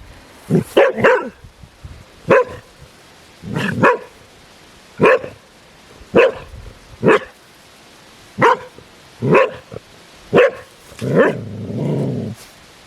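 Dog barking repeatedly, about one short sharp bark a second, with one longer, lower growling bark near the end.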